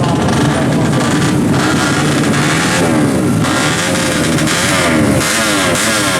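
Yamaha F1ZR two-stroke drag-bike engine being revved. From about three seconds in it gives several quick throttle blips in a row, each a rising whine.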